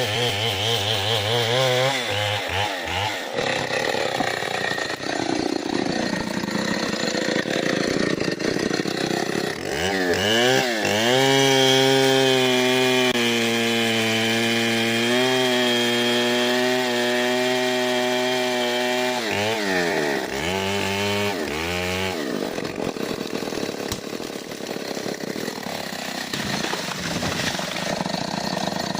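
Stihl 070 two-stroke chainsaw cutting into mahogany, its engine revving up and down between spells of cutting. In the middle it is held at steady high revs for several seconds before revving up and down again and cutting on.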